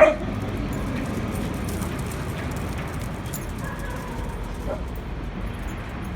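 A dog gives one short bark right at the start. A little past halfway comes a faint, brief whine.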